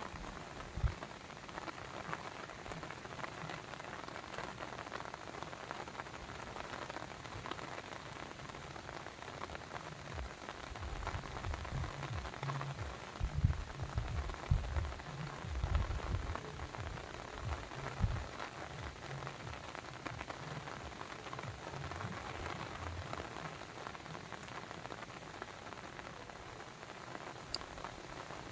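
Steady patter and rush of water, dense with small drop-like ticks. Low rumbling bumps come and go between about eleven and eighteen seconds in.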